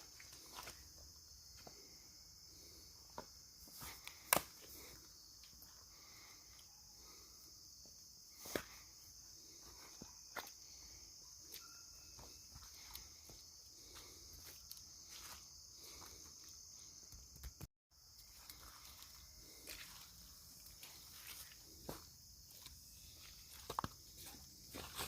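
Footsteps on the forest floor with scattered cracks and snaps, over a steady high-pitched chorus of crickets.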